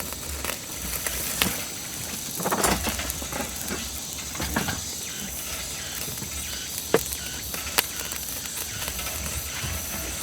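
Pork ribs sizzling on a grill, a steady hiss broken by a few sharp pops and crackles.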